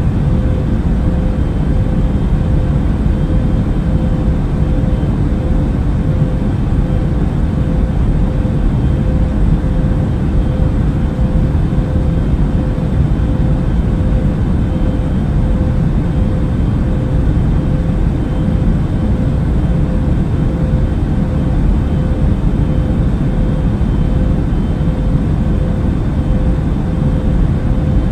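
Airplane cabin noise in flight: a steady low rumble of engines and rushing air, with a constant faint hum riding on it and no change throughout.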